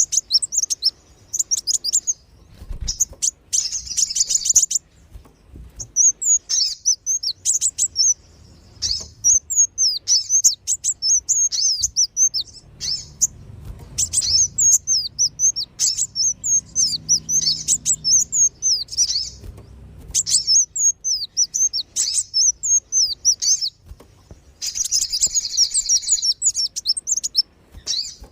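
Recorded lure call of kolibri wulung and sogon sunbirds: rapid, high-pitched chirping and twittering in bursts, broken by short pauses. There are denser, buzzier trills near the start and again near the end.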